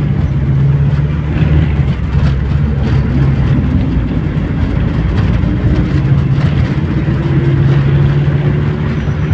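Diesel engine of a Mercedes-Benz LO 915 Neobus minibus running under load, its pitch slowly climbing through the second half as the bus accelerates.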